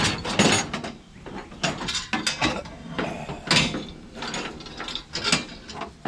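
Irregular metallic clanking and rattling of scrap metal being handled, a string of sharp knocks of uneven spacing.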